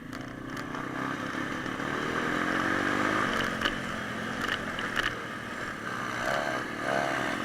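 Small single-cylinder pit bike engine running, its note rising as it revs about two to three seconds in, then settling, with a few sharp clicks.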